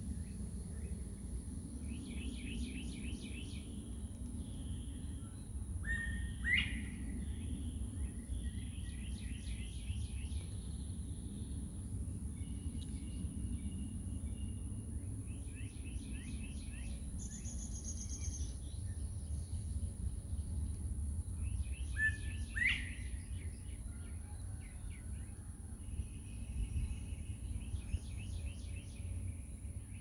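Wild birds singing: short runs of rapid high notes repeated every few seconds, and two louder sharp upward-sweeping calls about six and twenty-two seconds in, over a steady low rumble.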